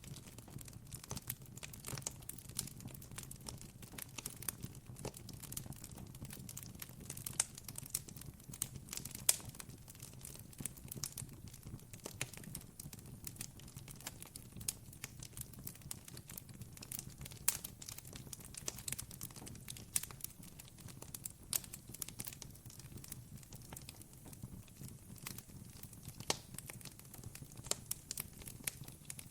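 Wood campfire crackling, with many small irregular pops and snaps over a steady low background.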